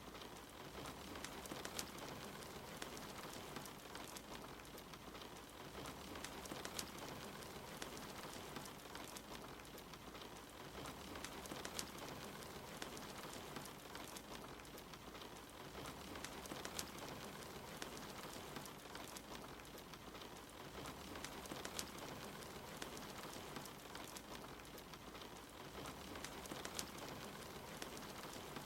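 Soft, steady rain with a wood fire crackling, its sharp little pops scattered throughout. A faint low rumble comes and goes about every five seconds.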